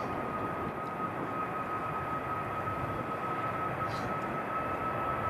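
Jet airliner engines running, a steady rushing noise with a thin, steady high whine held throughout, growing slightly louder near the end.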